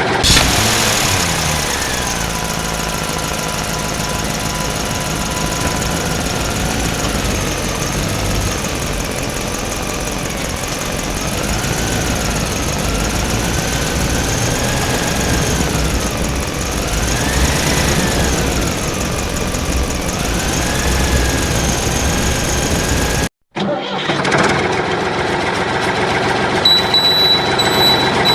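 Engine running steadily, with a whine that rises and falls in pitch over a low rumble. The sound cuts out sharply for a moment about three-quarters of the way through, and high reversing beeps start near the end.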